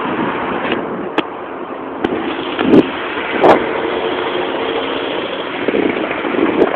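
Helicopter engine and rotors running with a steady noise and a faint steady tone, broken by two loud bumps a little under halfway through.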